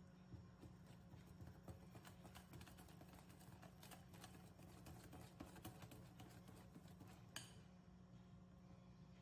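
Faint, irregular clicking and tapping of a utensil against a mixing bowl as batter is stirred by hand, with one sharper click near the end.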